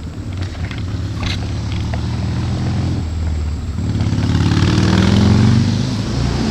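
A motor running with a steady low hum, growing louder and shifting in pitch about four seconds in.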